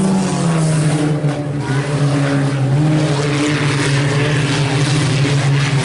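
A field of IMCA Sport Compact race cars running at speed on the track: a loud, steady blend of engine drone that shifts a little in pitch as the cars come off and back on the throttle.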